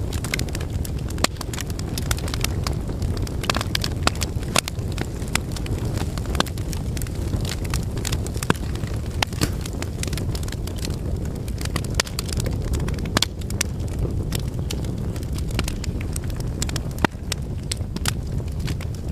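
Wood fire crackling in a fireplace: a steady low rumble of flames with irregular sharp pops and snaps scattered throughout.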